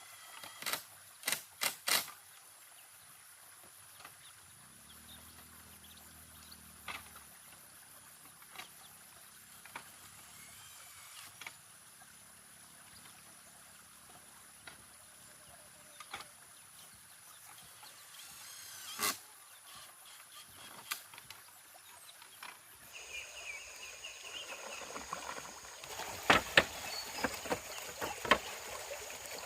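Irregular sharp knocks and taps over faint background noise. There are four in quick succession at the start, a few single ones spread through the middle, and a denser run near the end.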